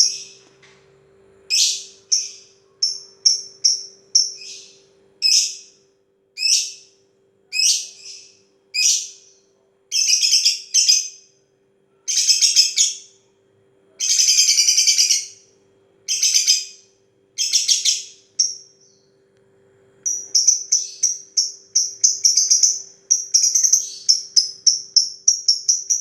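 Lovebird singing its rapid, high-pitched ticking chatter, the 'ngetik' song, in short bursts of about half a second to a second with brief pauses. Near the end the bursts close up into a fast, even run of ticks, several per second.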